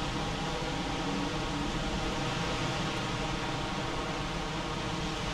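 Heavy rain falling steadily, an even hiss with no breaks, over a faint steady hum.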